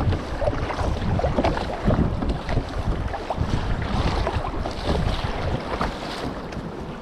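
Wind buffeting the microphone, with water splashing and lapping around a kayak on the sea.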